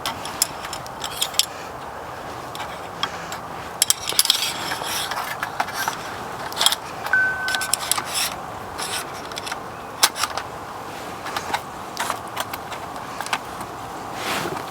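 Light metal parts of a small fire-bowl stove clinking and scraping as its legs and ring are slid together, in irregular clicks and jangles.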